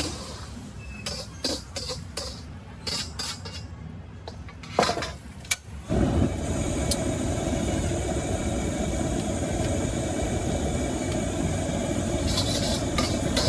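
Metal utensils clinking at a street-food wok station. About six seconds in, a steady roar of a high-output wok gas burner comes on suddenly, and a metal spatula clinks against the wok near the end.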